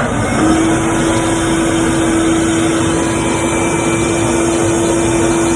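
Shop vacuum switched on and running steadily as a blower: a loud rush of air with a steady motor whine.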